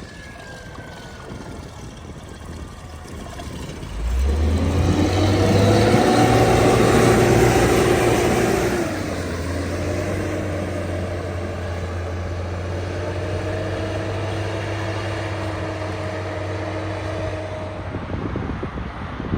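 Heavy diesel engine of a maintenance-of-way vehicle moving along the track. It comes in suddenly about four seconds in and is loudest for about five seconds, then settles to a steady drone.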